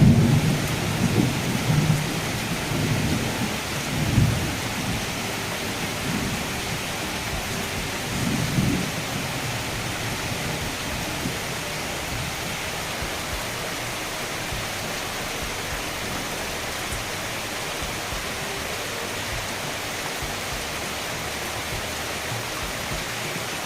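Heavy rain pouring down steadily, with a few low rumbles in the first nine seconds or so.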